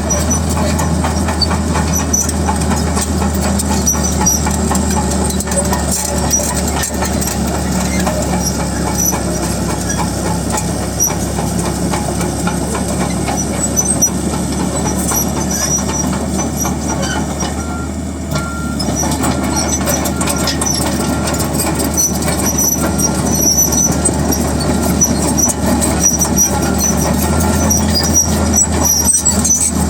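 A bulldozer's diesel engine running steadily under load, with the continuous clanking of its steel tracks and occasional short, high squeaks from the track links.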